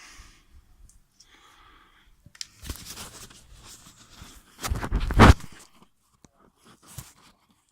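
Handling noises: rustling, scraping and clicking, with the loudest scrape or crunch about five seconds in. No engine is running.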